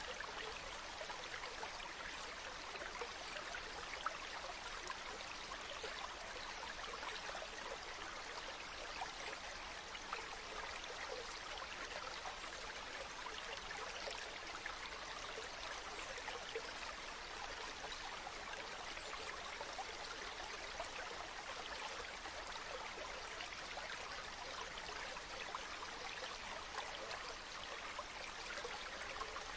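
Running water of a stream, a steady even rush with small trickling splashes.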